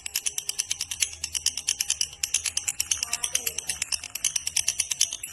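Lovebird giving its long ngekek, a rapid chattering trill of sharp, high notes repeated many times a second without a break.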